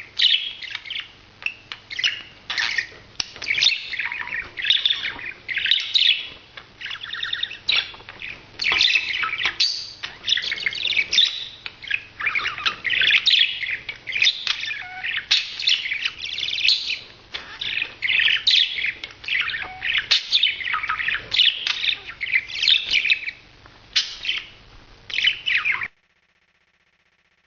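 Budgerigar chattering and warbling in a fast, continuous run of chirps, cutting off abruptly near the end.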